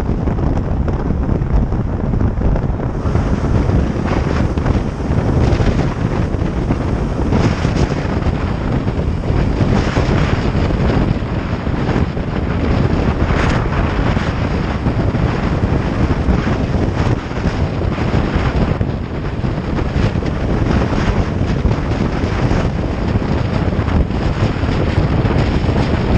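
Loud, steady wind buffeting the microphone of a camera riding on a moving motorcycle, with the motorcycle's running and road noise beneath it.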